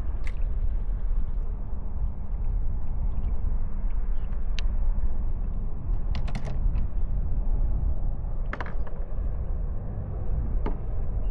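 A handful of scattered sharp clicks and knocks over a steady low rumble, with a small cluster of clicks about six seconds in.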